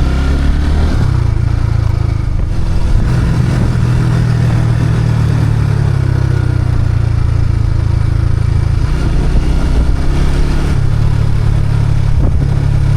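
Motorcycle engine running steadily while the bike is ridden in third gear. Its note shifts slightly about a second in and again around ten seconds in.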